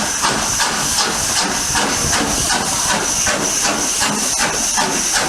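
Steam locomotive working, its exhaust beating in regular chuffs about three a second over a steady high hiss of escaping steam.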